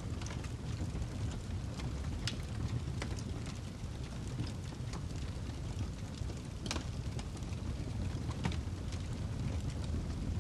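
Wood fire burning in a fireplace: a steady low rumble of the flames with irregular sharp crackles and pops of the burning log, one louder pop about two-thirds of the way through.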